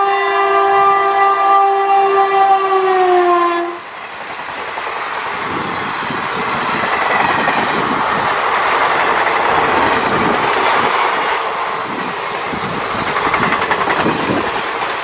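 A locomotive horn sounds one long blast that drops slightly in pitch just before it cuts off almost four seconds in. Then the rumble and clatter of train wheels on the rails builds and runs on steadily as the train passes.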